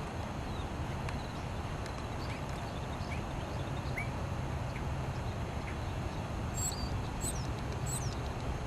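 Small birds chirping: scattered faint chirps, then three sharp high calls about 0.7 s apart near the end, over a steady low rumble.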